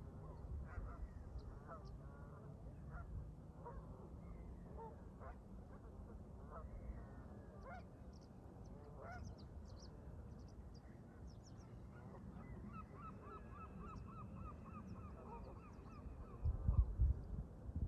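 Canada geese honking repeatedly, with a quick run of calls in the middle. A steady low rumble of wind lies underneath and rises to loud gusts on the microphone near the end.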